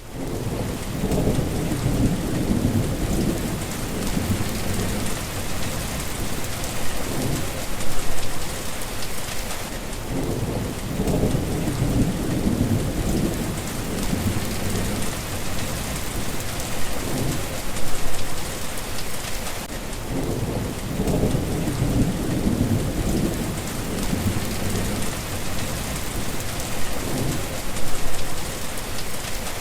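Steady heavy rain with rolling thunder rumbling underneath. The low rumbles swell and ease in a pattern that repeats about every ten seconds.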